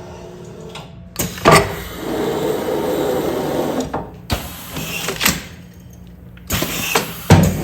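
Commercial container sealing machine cycling as it seals film onto food containers: a sharp clunk about one and a half seconds in, a couple of seconds of steady mechanical running, a brief lull, then more running and another loud clunk near the end.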